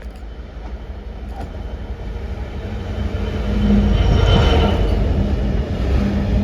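Diesel train approaching and running past, its low rumble and engine note growing steadily louder to a peak about four seconds in, then staying loud as it passes.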